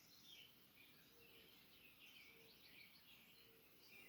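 Faint birdsong: small birds chirping in many short, quick phrases, with three brief lower notes.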